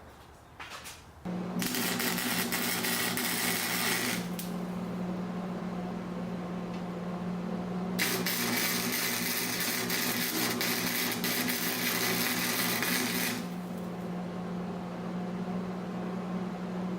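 Arc welding steel: the welder hums steadily, and over it the arc crackles and hisses twice, first for about two and a half seconds and then for about five seconds, tacking the bench's load-bearing piece in place.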